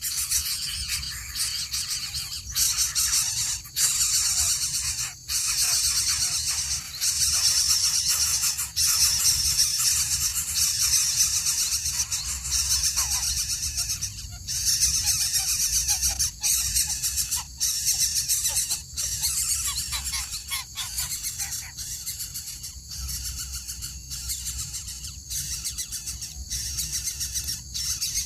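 Coucal (bubut) giving harsh, hissing screeches, a dense high-pitched sound broken by short gaps every second or so.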